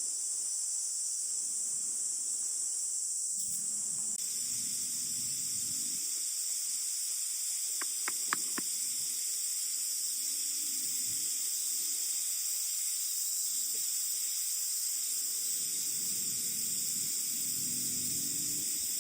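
Steady high-pitched chorus of crickets and other insects, with low wind rumble swelling and fading now and then and a brief run of clicks about eight seconds in.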